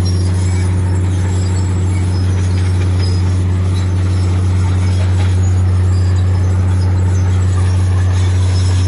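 Heavy diesel engine of earthmoving machinery running steadily: a loud, even low drone with a rushing noise over it.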